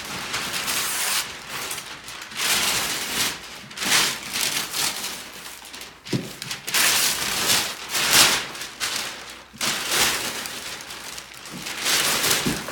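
Wrapping paper being torn and crumpled as a gift is unwrapped, in repeated rough rips and crinkling rustles every second or two.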